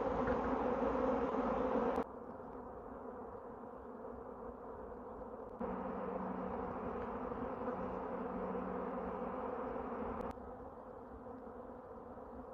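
A honey bee swarm in flight: the dense, steady buzz of a great mass of bees leaving the hive. The level drops suddenly about two seconds in, rises again near six seconds and drops again near ten.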